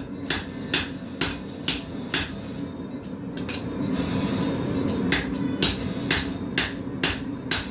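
Blacksmith's hammer striking hot steel on an anvil in a steady rhythm of about two blows a second. The hammering stops for a couple of seconds midway, then picks up again at the same pace.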